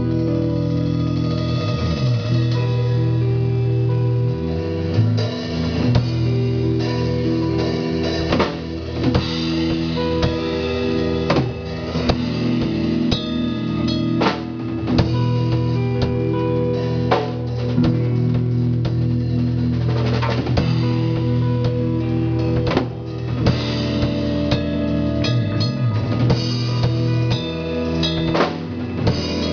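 Loud band music over a PA sound system at a sound check: drum kit, guitar and sustained bass notes playing continuously.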